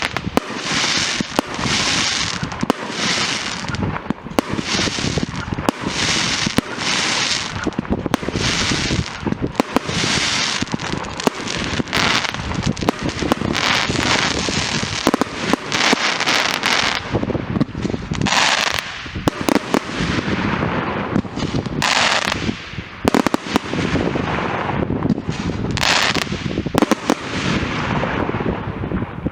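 Fireworks going off without pause: a dense string of sharp bangs, with a bright crackling burst about once a second.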